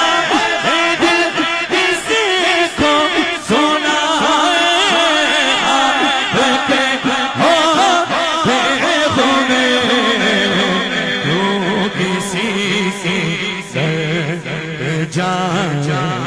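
Devotional naat music: long, wavering melodic notes sung over steady drum beats, the melody settling lower and steadier after about ten seconds.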